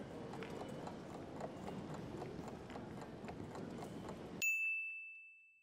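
Train interior ambience: a steady rumble with light irregular clicking, cut off abruptly about four seconds in by a single bright chime that rings out and fades away.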